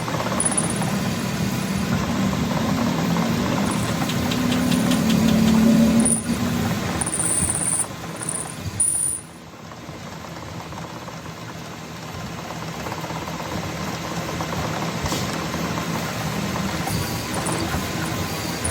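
Car engine running, with a brief rise around five to six seconds in; the level drops sharply about nine seconds in, leaving a quieter steady running sound.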